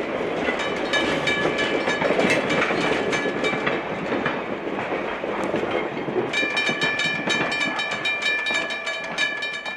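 A train's wheels clicking over rail joints as it rolls by, while the lead diesel locomotive, a GP9, sounds its multi-note air horn: a shorter sounding early on, then a long blast from about six seconds in that cuts off suddenly.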